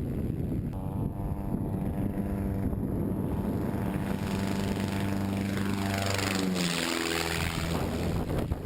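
Lake amphibian plane's propeller engine flying past close by: a steady droning tone that grows louder, then drops in pitch sharply about six to seven seconds in as the plane passes and moves away. Wind rumbles on the microphone throughout.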